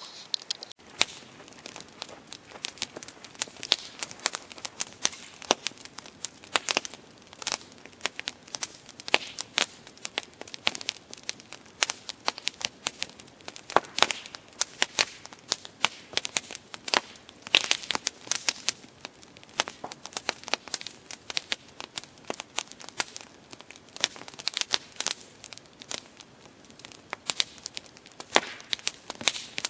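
Campfire crackling: a dense, irregular run of sharp pops and snaps from burning wood over a soft hiss, cutting in about a second in.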